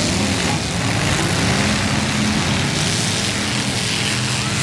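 Several demolition derby cars' engines running and revving together, pitch rising and falling over a steady din.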